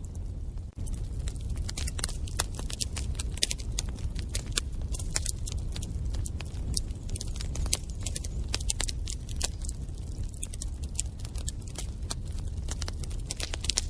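Wood fire burning in a fireplace: irregular sharp crackles and pops, many a second, over a steady low rumble of the flames.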